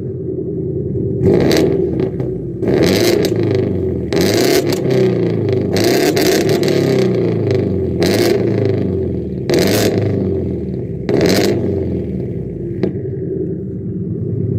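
Engine of a Hyundai Genesis with a big GT35 turbocharger, revved repeatedly so that its note rises and falls, with about seven short bursts of air hiss between revs and a single sharp pop near the end.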